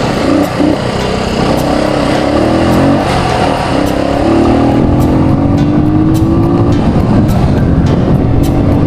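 A road vehicle's engine accelerating under way, its pitch climbing steadily over several seconds, over a constant rush of road and wind noise.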